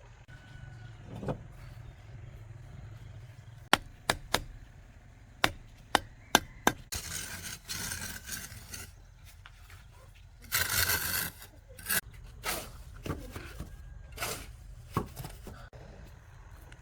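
Bricklaying work: a trowel tapping bricks into place with irregular sharp knocks, some in quick runs of two or three, and twice a second or so of scraping mortar.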